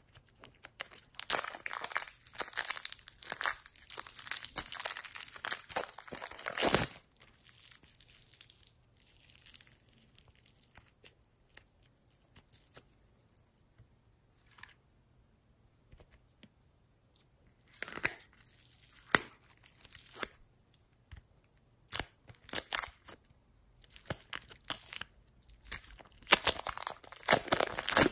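Slime being squeezed and worked by hand, crackling and popping in dense bursts: a long run in the first seven seconds, fainter crackles after, then several shorter bursts in the second half.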